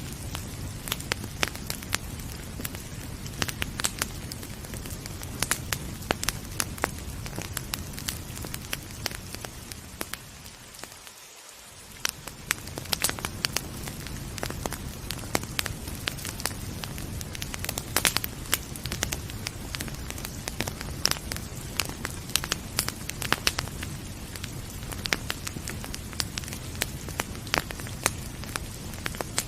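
Wood fire crackling with frequent sharp pops over a steady hiss of rain. About eleven seconds in, the low rumble drops away briefly and the whole sound dips before coming back.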